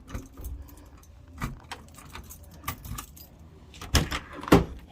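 Keys jangling with scattered clicks and knocks as someone gets into a classic Mini, with two heavy thumps near the end.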